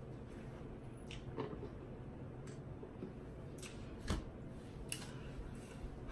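Close-up eating sounds from someone eating chicken wings: scattered small mouth clicks and smacks, irregularly spaced, over a low steady hum.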